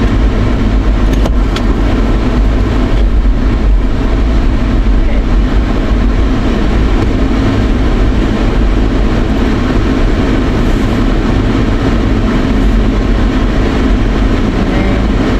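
Steady vehicle drone heard from inside a moving truck's cab: road and engine noise.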